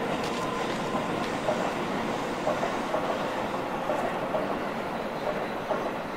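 Keihan electric commuter train running along the track: a steady rolling rail noise with a few brief, sharper knocks along the way.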